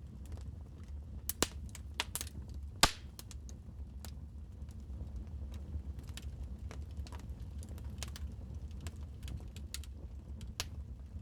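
Wood fire crackling: a steady low rumble of burning with irregular sharp pops and snaps, the loudest a little over a second in and near three seconds in.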